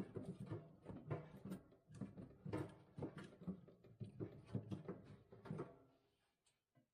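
Freshly lit kindling crackling and popping in a wood stove, irregular clicks at a low level, fading out near the end.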